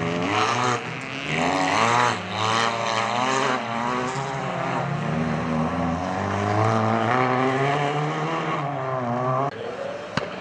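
Rally car engines revving hard on a gravel track, the pitch rising and falling again and again as the cars are driven sideways through the corners. The engine sound drops away abruptly near the end, followed by a single sharp knock.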